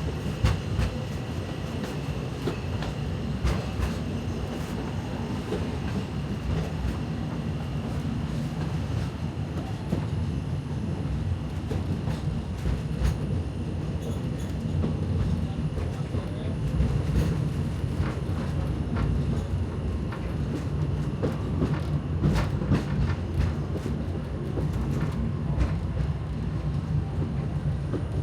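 Passenger car of the Magic Kingdom's narrow-gauge railroad train rolling along the track: a steady low rumble, with irregular clicks of the wheels over the rails.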